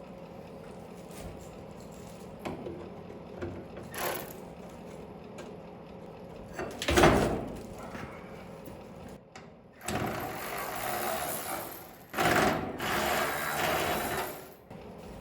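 Tools working loose body bolts on an old truck: a loud clank about seven seconds in, then two stretches of about two seconds each of rapid mechanical rattling as bolts are turned out.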